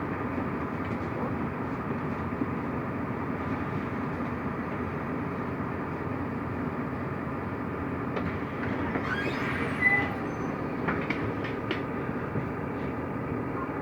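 Mercedes-Benz O345 Conecto LF city bus under way, heard from inside the cabin: a steady drone of the engine and road noise. Brief rattling with a short squeak comes around ten seconds in.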